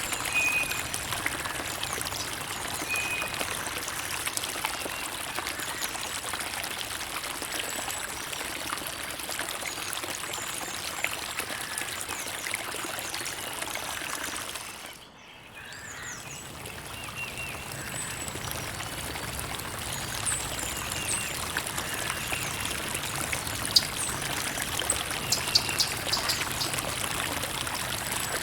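Creek water running and trickling over stones, a steady rush with small splashes and drips. About halfway through it fades down briefly and swells back up.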